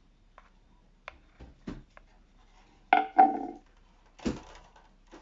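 Handling noises from hard objects on a work surface: several light clicks and taps, a louder clatter about three seconds in, then a thump about a second later.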